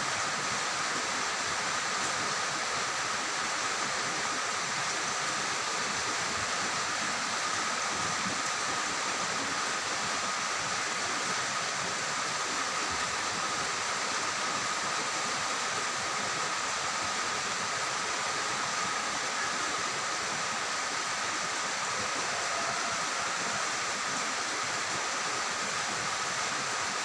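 Steady rain falling, an even hiss with no breaks, with a faint steady high tone running underneath.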